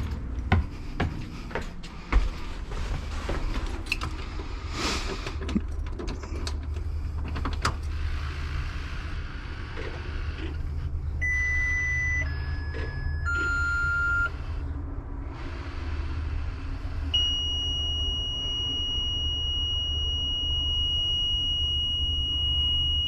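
A Cat C7 diesel idling with a steady low rumble, with clicks and knocks over the first several seconds. Around the middle come three short electronic beeps, each lower than the last, and then from about two-thirds of the way in a steady high-pitched warning tone that keeps going.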